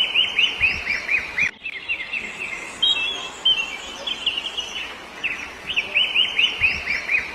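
A songbird singing in fast runs of short, downward-sweeping chirps. One run comes at the start and another about five and a half seconds in, with a few scattered notes between.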